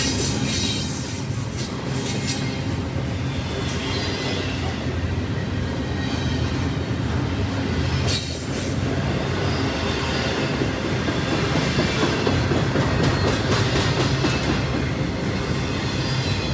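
A double-stack intermodal freight train of container well cars rolling past at close range. Steel wheels rumble and clatter steadily on the rails, with some thin, high wheel squeal.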